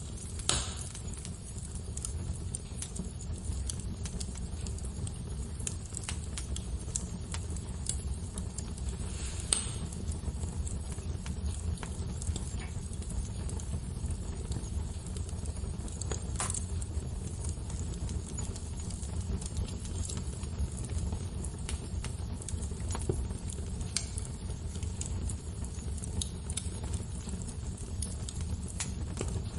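Fireplace fire crackling: a steady low rumble of burning with scattered small pops and a few louder snaps spread through it.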